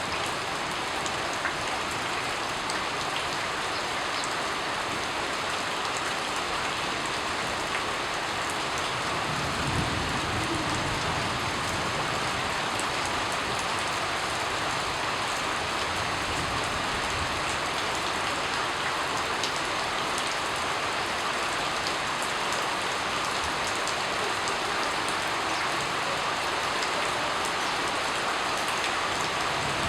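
Steady rain falling, an even hiss dotted with the small ticks of individual drops, with a soft low rumble about ten seconds in.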